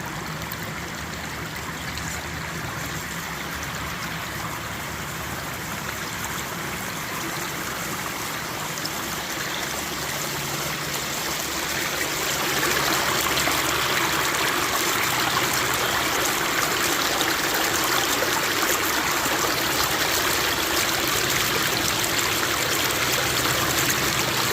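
Flowing stream water rushing steadily, growing louder about halfway through.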